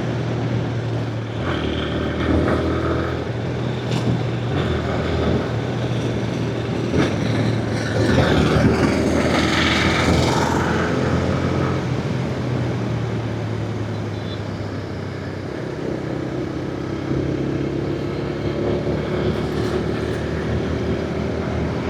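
Motorcycle engine running steadily while riding, under a continuous rush of noise; its pitch drifts a little as the revs change.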